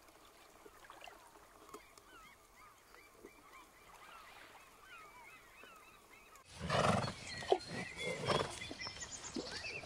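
Faint birds chirping in short hooked notes. About six and a half seconds in, the sound jumps louder into a busier outdoor background of animal noises, with birds still chirping.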